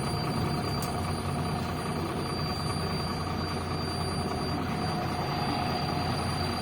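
Cabin noise of a MAZ-105 city bus: steady engine and drivetrain drone with a steady high whine over it.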